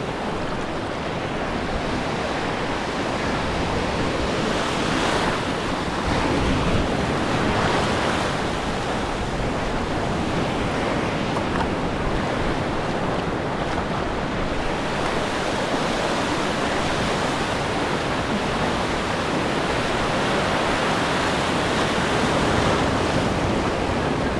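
Ocean waves breaking and washing in the surf, a steady loud rush that swells a few times, with wind buffeting the microphone.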